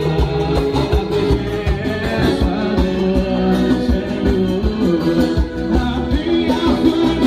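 A live band playing Latin-style music with singing, guitar and a steady drum beat.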